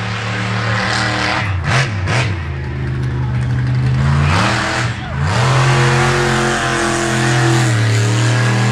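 Monster truck engine revving hard at a show, its revs dropping and climbing back several times as the throttle comes off and goes back on.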